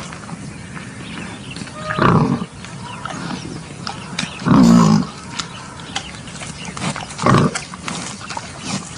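Wild boar giving three loud grunting calls, about two and a half seconds apart. Small clicks and rustling can be heard between the calls.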